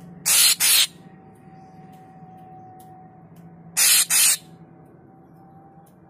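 Caged murai papua (deot) giving two harsh, hissing double calls, each a pair of quick rasps, about three and a half seconds apart.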